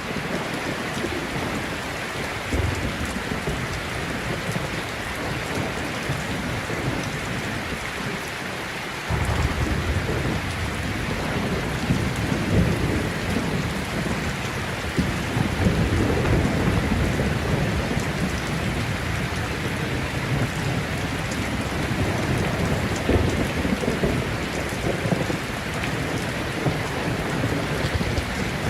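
Heavy rain falling steadily in a thunderstorm. About nine seconds in, low thunder starts rumbling and keeps rolling, swelling and easing, under the rain.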